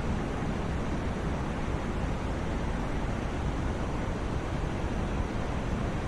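Steady, unchanging white-noise sleep track, an even rushing hiss that is heavier in the low end and fades toward the top.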